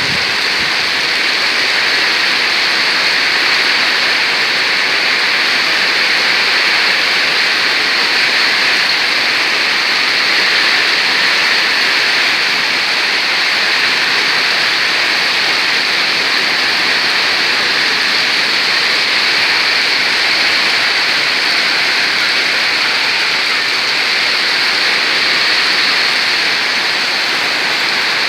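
Heavy rain pouring steadily in a windstorm, an even, dense hiss that does not let up.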